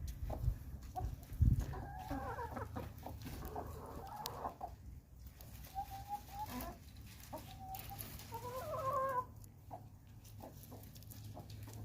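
Chickens clucking, with several runs of short, pitched calls between about two and nine seconds in.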